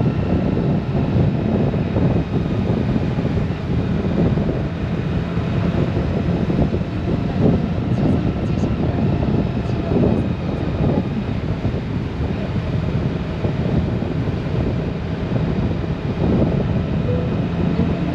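Honda Gold Wing motorcycle cruising at a steady speed: a steady engine hum under wind noise on the microphone and road rumble.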